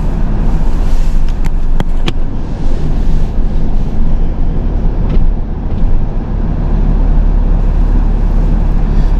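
Truck engine running steadily with a low rumble, with a few sharp clicks about a second and a half to two seconds in.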